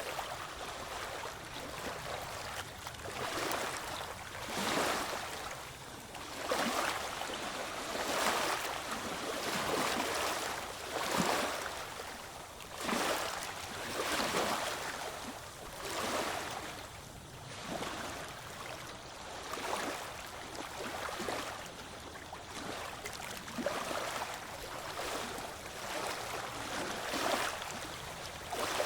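Ocean waves washing in, one surge of rushing water after another about every second and a half to two seconds.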